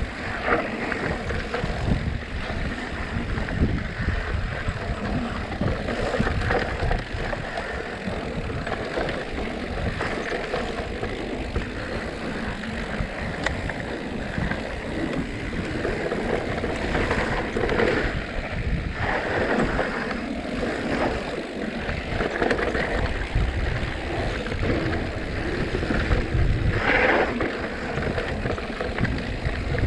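Mountain bike descending a rough dirt trail at speed: a steady rush of wind on the microphone over tyres and bike rattling on the ground.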